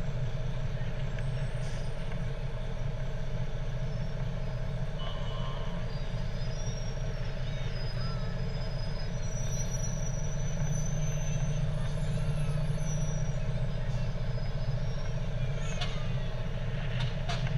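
Fire truck engine running steadily, a low continuous drone with a few faint short tones over it.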